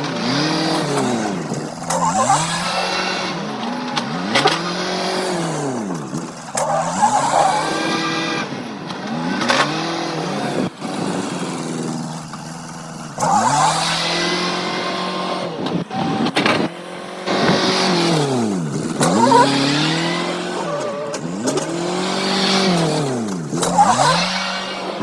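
Engine of a farm machine working a corn pile, revving up and falling back again and again, about every two seconds, with occasional knocks.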